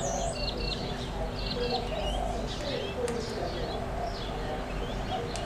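Several wild birds calling together: many short high chirps repeated in quick runs, over lower warbling calls.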